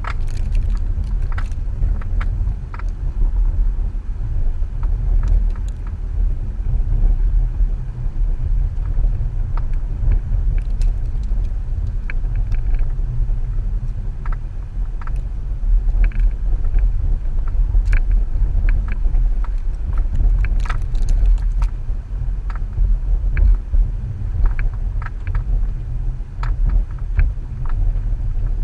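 Subaru XV Crosstrek driving off-road through snow: a steady low rumble of engine and tyres, with scattered knocks and rattles as it jolts over the rough trail.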